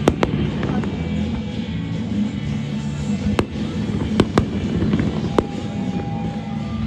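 Fireworks going off: about five sharp bangs, one right at the start, then a pair and two more in the middle stretch, over background music.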